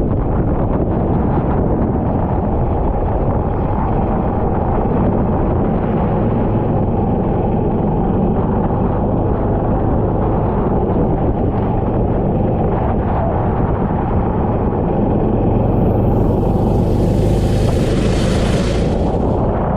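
Go-kart engine running steadily with wind noise on the onboard microphone. About 16 seconds in, a hiss swells for roughly three seconds and then fades.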